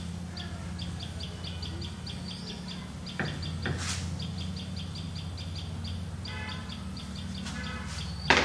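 Birds chirping in rapid, evenly repeated high chirps over a steady low hum, with two sharp clicks about three and four seconds in.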